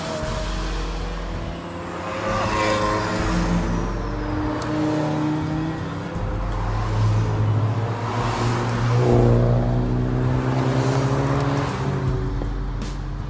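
Cars' engines revving as they pass at speed on the road, their pitch rising and falling, with music playing along.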